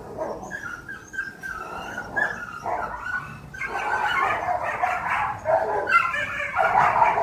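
Several dogs barking and yapping over one another in quick, repeated barks, getting busier and louder from about halfway through.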